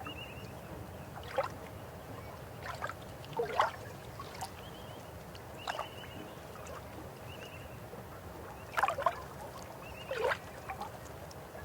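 A river flowing with a steady rush, broken by about six water gurgles and plops, the loudest near a third of the way in and near the three-quarter mark. A few faint, short, high chirps come and go.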